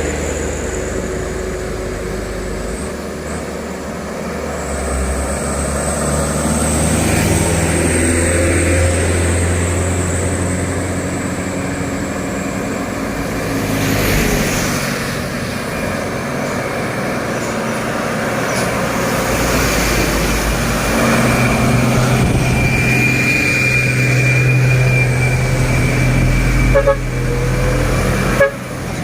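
Heavily loaded trucks' diesel engines labouring slowly uphill in passing traffic, with a vehicle horn tooting. Two short knocks sound near the end.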